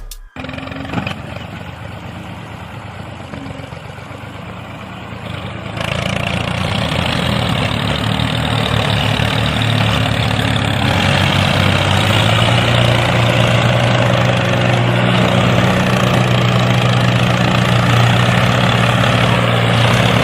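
The small motor of a DIY toy mini tractor running steadily, growing louder about six seconds in.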